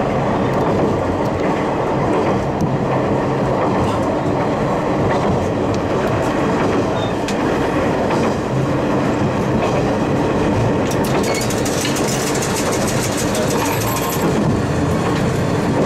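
Haimo 295 diesel railcar running steadily along the track, with a constant engine and wheel-on-rail noise. A run of rapid clicks comes about three-quarters of the way through.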